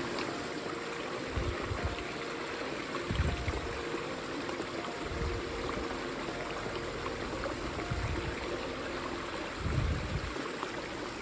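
Mountain stream running steadily over rocks, with several short low thumps at intervals.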